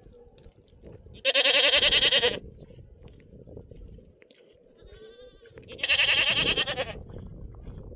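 A goat bleating twice, each call about a second long with a quavering tremble, with a fainter bleat between them.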